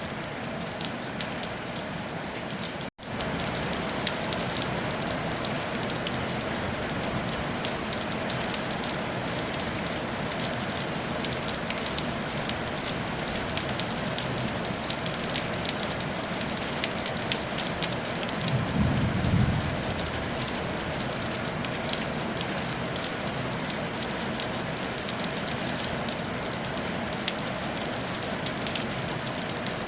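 Steady rain falling on a tile roof, an even patter throughout. It cuts out for a split second about three seconds in. A short low rumble sounds about two-thirds of the way through.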